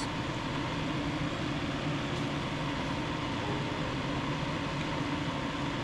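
Steady hum and whir of a running fan, with no distinct events over it.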